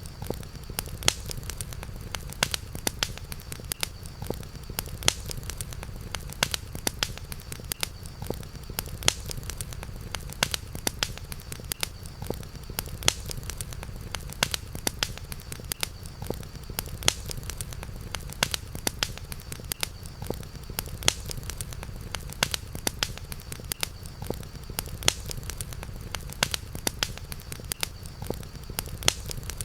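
Campfire crackling, with frequent sharp pops over a steady low rumble. A faint steady high tone sits behind it.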